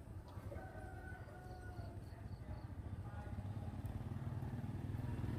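A motorcycle engine running and growing steadily louder as it approaches. A rooster crows faintly about half a second in.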